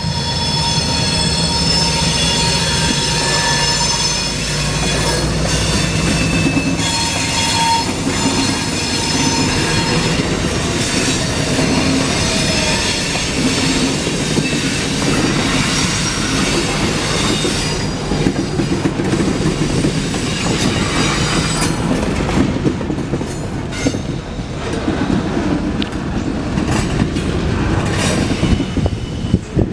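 A freight train passing close by: an EMD MP15AC switcher's 12-cylinder diesel drones low for the first several seconds as it goes past, then the boxcars roll by with steady wheel-on-rail noise, brief high wheel squeals and clacks over the rail joints. About two-thirds of the way through the sound thins out into sharper scattered clicks and clanks from the passing cars.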